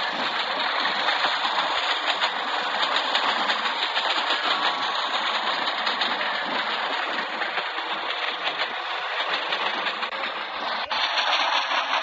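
Steady mechanical noise from an Indian Railways train with a WAP-4 electric locomotive, with a brief click near the end.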